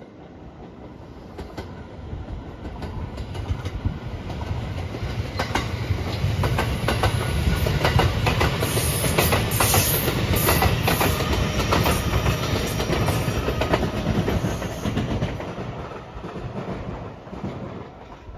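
Rapid Marine Liner electric multiple-unit train passing at speed, its wheels clattering over rail joints. It grows louder from about two seconds in, is loudest through the middle with a run of sharp clicks, then fades near the end.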